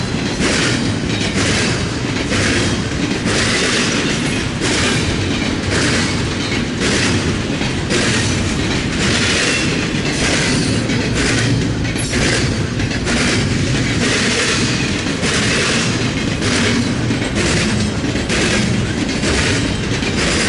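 Freight train cars rolling past close by, with the steady roar of steel wheels on rail and a regular clickety-clack of wheels over the rail joints, about two beats a second.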